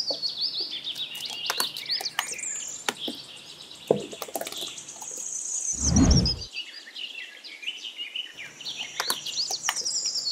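Birds chirping and tweeting in a steady stream of short high calls, with a brief low thump about six seconds in.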